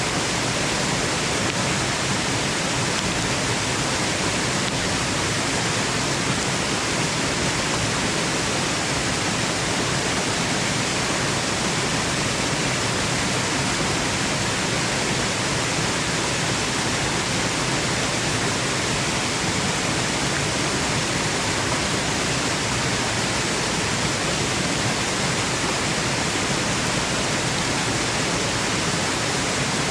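Waterfall rushing: a steady, even roar of falling water with no breaks or changes, used as white noise.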